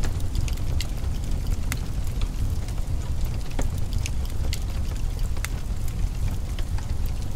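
Wood fire crackling in a fireplace: irregular sharp pops and clicks, a few each second, over a steady low rumble.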